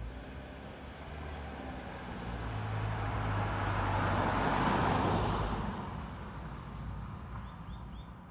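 A road vehicle passing by: its engine hum and tyre noise grow louder to a peak about four to five seconds in, then fade away.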